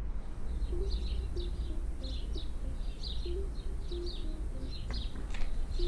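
Birds chirping in quick repeated short notes over a steady low rumble.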